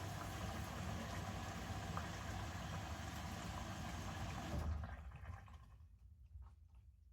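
Bosch Series 6 washing machine drawing water in through its inlet valve early in the main wash, a steady rushing hiss over the machine's low hum that cuts off about four and a half seconds in as the fill stops, leaving faint clicks.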